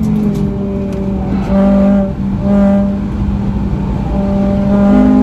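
FN2 Honda Civic Type R's four-cylinder engine under load on a race circuit. The note holds mostly steady with a brief dip about two seconds in, then climbs in pitch near the end.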